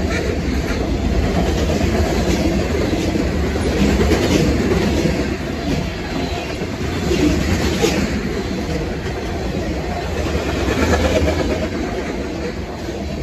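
A Canadian National freight train rolling steadily past, its cars' wheels clacking over the rail joints now and then.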